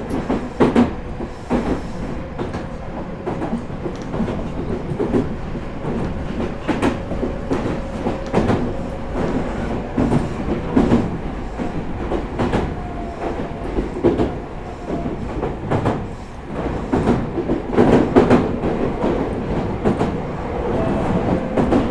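Interior running sound of a Meitetsu 4000 series electric train: a steady rumble of wheels on rail, broken by irregular sharp clacks as the wheels cross rail joints, with a steady whine through the first half that fades later.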